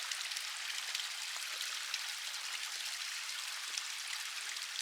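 A waterfall: a steady rush of falling, splashing water.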